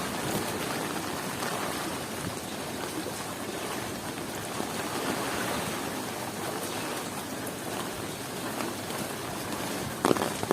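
Heavy rain falling in a steady hiss, with a short, sharper burst of noise near the end.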